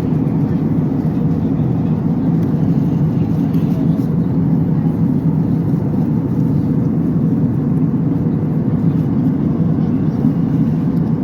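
Steady low roar of an airliner's engines and airflow heard inside the passenger cabin.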